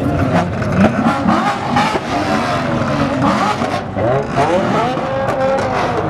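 Several car engines revving at once, their pitch rising and falling over and over in overlapping sweeps.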